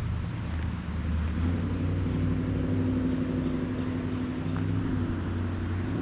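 A motor vehicle's engine running steadily, a low pitched hum whose tone rises a little about a second and a half in and drops back near the end.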